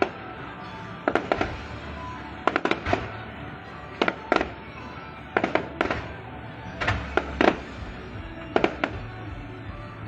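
Fireworks going off: sharp bangs in clusters of two or three, about every second and a half.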